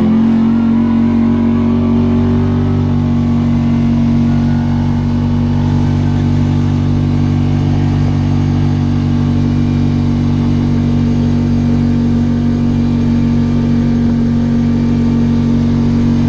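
Kawasaki Teryx 4 side-by-side's engine running at steady revs while cruising, a constant engine drone heard from the driver's seat.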